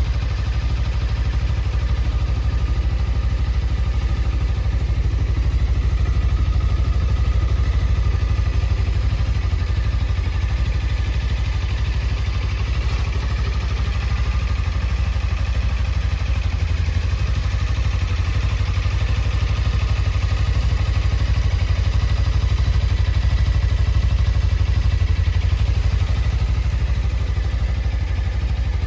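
Suzuki GSX250R's 248 cc parallel-twin engine idling steadily.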